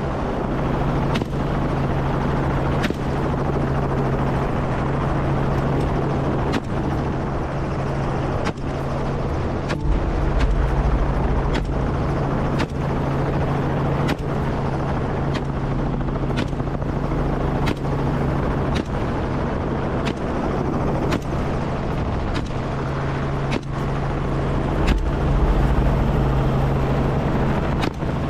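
Helicopter running steadily, a constant low drone of rotor and engine. Sharp short clicks come through it every second or so at uneven spacing.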